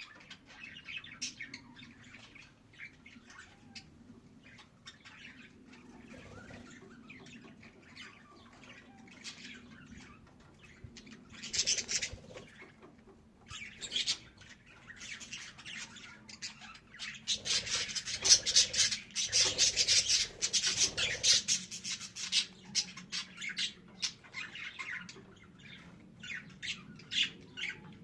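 Budgerigar chirping and chattering with short squawks, the warbling budgie song. The chatter grows dense and loudest for several seconds a little past the middle, then thins to scattered chirps.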